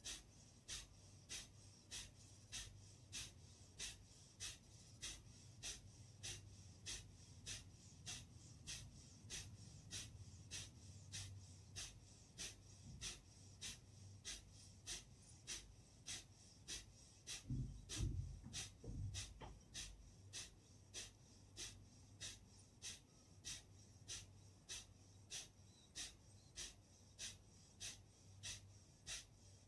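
Kapalbhati breathing: short, forceful exhalations through the nose, faint and evenly paced at about one and a half a second. A brief low thump or rustle cuts in about two-thirds of the way through.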